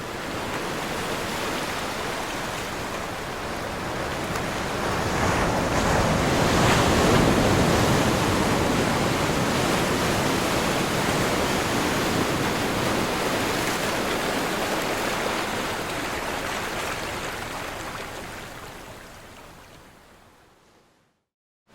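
Ocean waves breaking and washing on a shore, a steady rushing surf that swells to its loudest about seven seconds in, then slowly dies away near the end.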